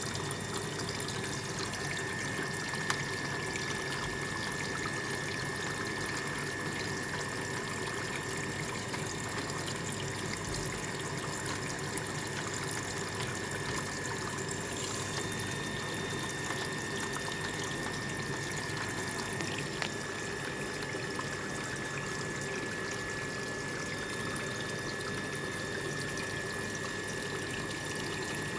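Water running steadily, with a constant faint high whine.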